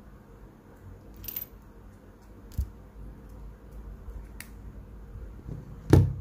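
Scattered clicks and knocks from phones and small parts being handled on a workbench, the loudest a knock just before the end, over a low steady hum.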